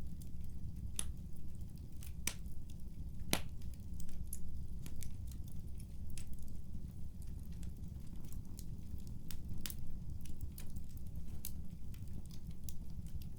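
Wood fire crackling, with sharp irregular pops and snaps over a steady low rumble; the loudest pop comes about three seconds in.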